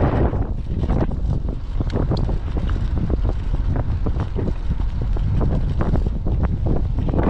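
Typhoon wind buffeting the microphone in a loud, steady low rumble, with many short sharp knocks and clatters scattered through it.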